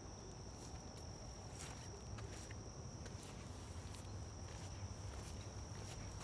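Insects singing one steady, unbroken high-pitched note, with irregular footsteps along a trail.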